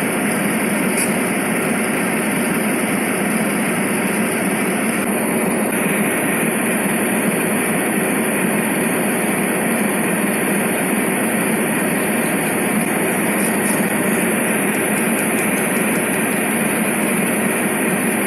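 Steady, even running noise of a long coal train of hopper cars rolling past.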